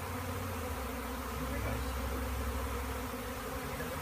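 A large swarm of honey bees buzzing, a steady, dense hum of many bees close by.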